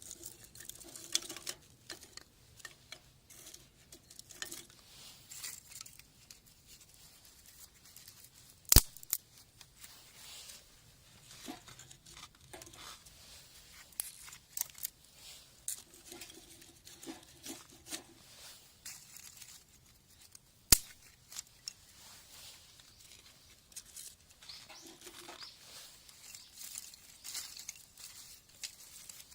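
Rustling and crinkling of handled material with scattered small clicks, broken by two sharp knocks about twelve seconds apart.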